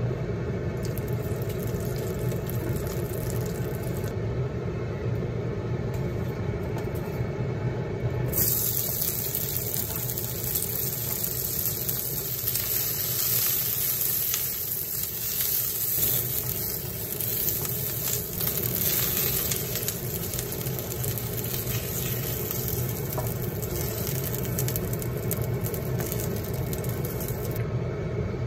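Sliced onion sizzling in hot oil in a seasoned wok while it is stirred with chopsticks. The sizzle starts suddenly about a third of the way in and cuts off shortly before the end. A steady low hum lies underneath throughout.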